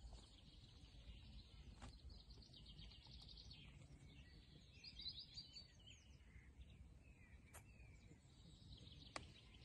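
Faint birdsong: short chirping trills over low background noise, with a few faint clicks.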